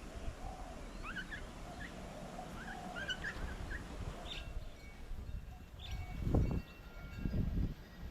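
Small birds chirping around an outdoor bird table, with many short high chirps in the first half. Two louder low rumbles follow about six and seven seconds in.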